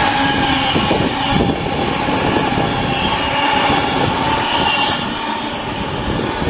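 An electric train running past on the line, a steady rail rumble with a faint whine over it, easing slightly near the end.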